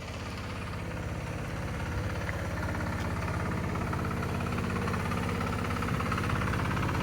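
An engine running steadily with a fast, even pulsing, growing slightly louder.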